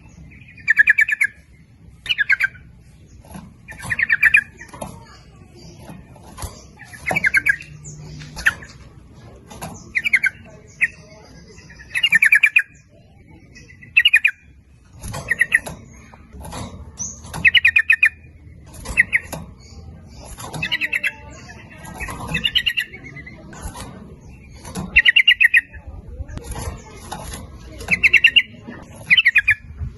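Yellow-vented bulbul (trucukan) giving its loud, bubbling chatter: short rapid phrases repeated every second or two, with fainter calls in between.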